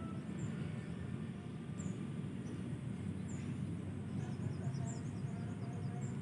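Outdoor ambience: a steady low rumble, with a short high chirp repeating about every second and a half and a quick run of small chirps about four seconds in.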